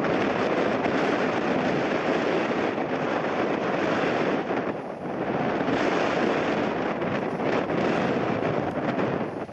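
Strong, gusting wind rushing over the microphone, mixed with the jet noise of an airliner on its landing approach. The roar dips briefly about halfway through, then returns.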